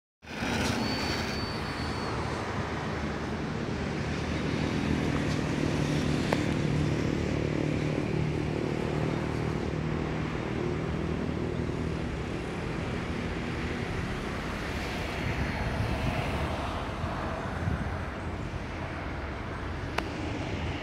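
A steady engine drone with a low hum that grows stronger partway through and eases off toward the end.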